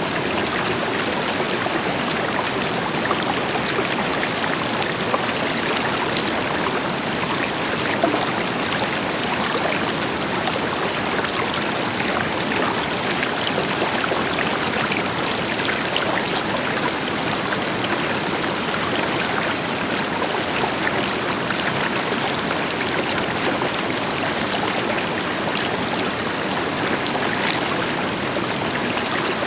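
River water flowing over rocks, with a distant waterfall beneath it: a steady rushing, with small splashes and gurgles on top.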